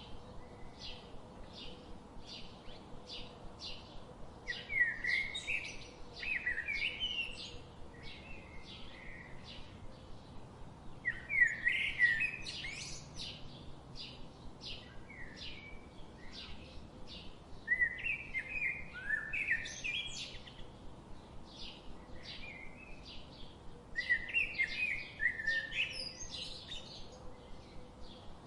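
Birds chirping: a steady run of short, high chirps about two a second, with louder warbling phrases every six seconds or so.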